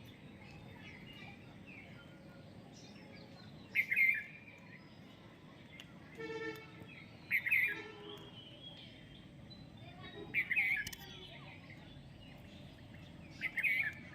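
A parrot calling: four short, loud calls spaced about three seconds apart, with fainter chirps in between.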